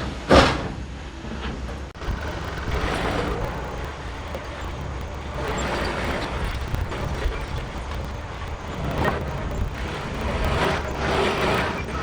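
John Deere 4052R compact tractor's diesel engine running steadily while working a box blade through dirt, with swells of louder, rougher noise every few seconds and a sharp knock just after the start.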